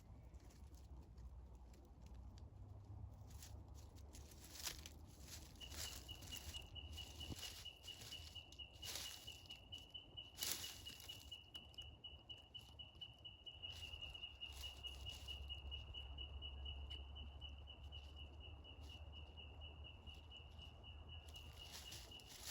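Faint rainforest undergrowth sounds: scattered soft rustles and clicks in the leaf litter over a low rumble, with a steady high-pitched tone starting about six seconds in and holding on.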